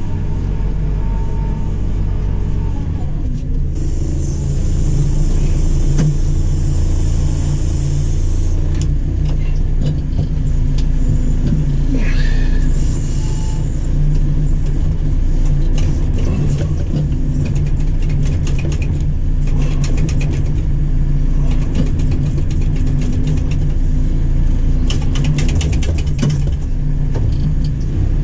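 JCB 4CX backhoe loader's diesel engine running steadily, heard from inside the cab. A high hiss sounds for about five seconds early on, and scattered clicks and knocks come in the second half.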